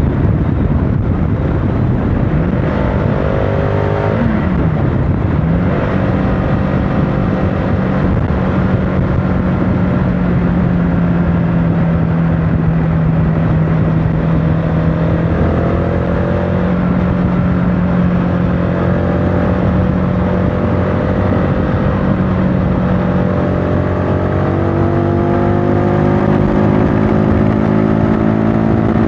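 CFMOTO motorcycle engine running under way over a steady rush of riding noise. The revs dip briefly and climb back about four to five seconds in, then hold steady through the middle, and rise gradually near the end as the bike accelerates.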